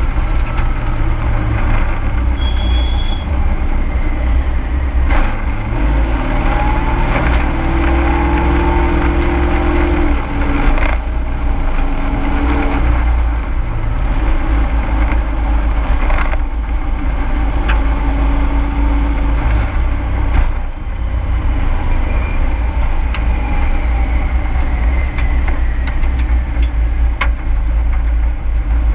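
Race truck's engine running hard, heard from inside the cab, a heavy low rumble with the pitch rising and falling and brief dips every few seconds.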